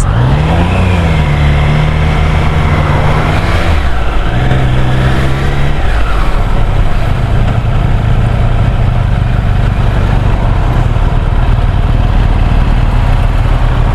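Triumph Street Triple 765R's three-cylinder engine accelerating on the road, its pitch climbing and then dropping at gear changes about four and six seconds in, then running steadily at cruising speed under rushing wind noise.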